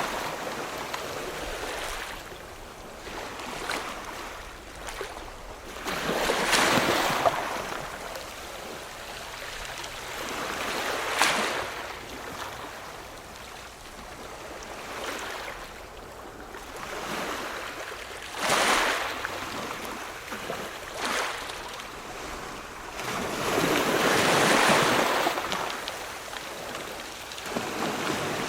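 Ocean waves breaking and washing up the shore, surging in a loud rush every several seconds and easing off between; the longest, loudest surge comes a few seconds before the end.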